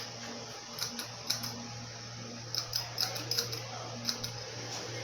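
Heritage M52 ceiling fan running with a steady motor hum, and irregular clicking and ticking, bunched together about halfway through.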